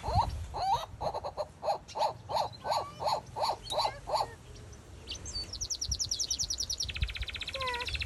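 Small aviary birds calling: about three chirps a second, repeated for the first four seconds. Then fast high trills run through the second half.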